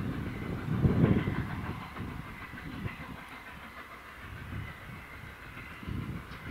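A train running by, with a regular low beat about once a second, loudest about a second in, over a steady hiss.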